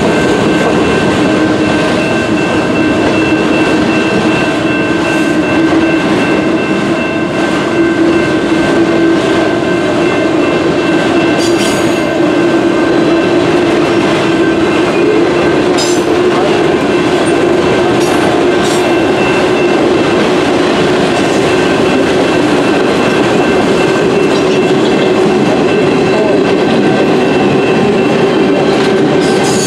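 Freight train cars, autoracks then flatcars, rolling past close by: a steady, loud rumble of steel wheels on the rails, with thin high squealing tones held throughout and a few sharp clanks. The main rumble rises slightly in pitch as the train slowly gathers speed.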